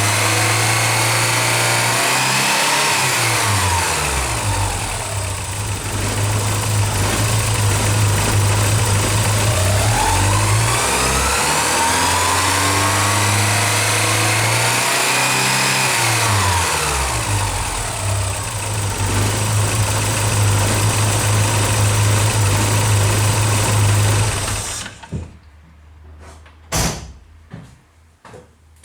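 Early Porsche 944's four-cylinder engine idling and revved up and back down several times, then switched off near the end, followed by a single knock. The owner puts its rough idle down to a faulty fuel pressure regulator.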